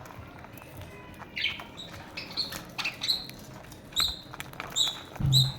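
Small pet parrots giving short chirps that repeat about twice a second from a second or so in, with sharp clicks among them. A low thump comes near the end.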